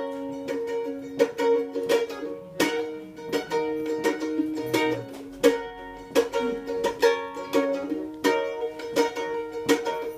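Live instrumental intro of a pop song on a strummed acoustic string instrument: chords struck in a steady rhythm with sharp strokes, heard in a small room.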